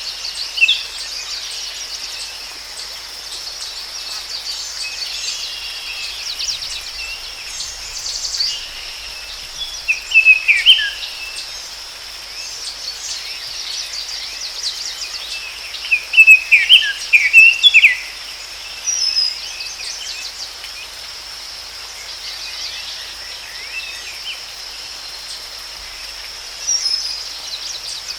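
Forest ambience: birds singing in bursts of quick chirps and falling whistles, loudest about ten seconds in and again between sixteen and eighteen seconds, over a steady high insect drone and a soft hiss.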